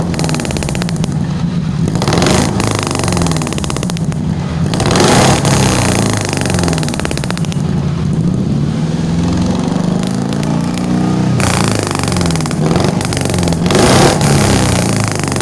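Suzuki Carry injection engine revved again and again through a custom exhaust with a 431-type header and an HKS Hi-Power muffler, its pitch climbing and falling with each blip of the throttle. The strongest revs come about 2.5, 5, 12.5 and 14 seconds in.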